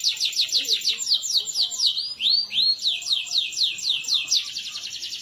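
Domestic canary singing: rapid series of repeated downward-sweeping whistled notes, with a couple of slower arched notes about two seconds in. Near the end the song switches to a faster, tighter rolling trill.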